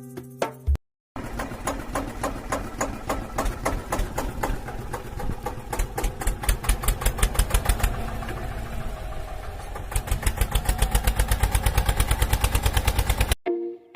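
Tractor engine chugging steadily in even, rapid beats, about seven a second. It starts after a brief silence about a second in and cuts off suddenly near the end.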